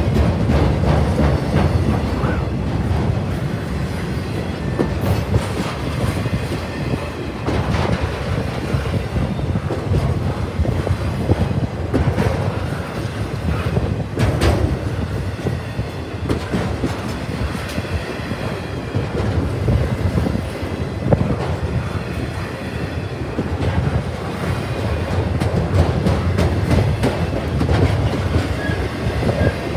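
Double-stack intermodal train's container well cars rolling past: a steady rumble of steel wheels on rail, with repeated clacks as the wheels pass over rail joints.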